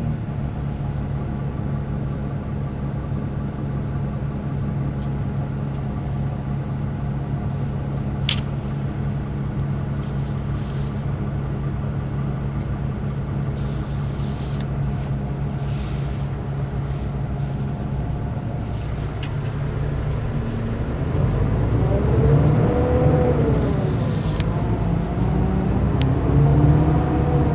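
Mercedes-Benz O500 RSD BlueTec5 coach's diesel engine running with a steady drone, then pulling harder and louder about two-thirds of the way in, its pitch rising and falling twice.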